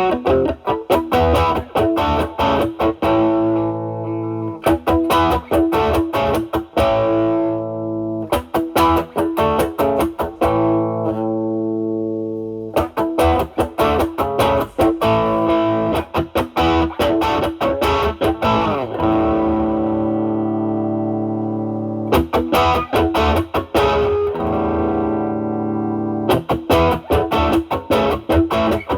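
Overdriven electric guitar: a Stratocaster with single-coil pickups played through an Ibanez Tube Screamer Mini overdrive pedal into a Marshall Valvestate amp's drive channel. Lead phrases of quick picked notes alternate with long held notes that sustain for several seconds.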